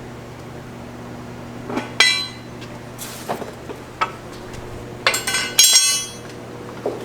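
Metal tools and parts clinking and clattering against each other during engine removal work: a sharp ringing clink about two seconds in, lighter taps around three to four seconds, and a louder cluster of ringing clanks around five to six seconds in.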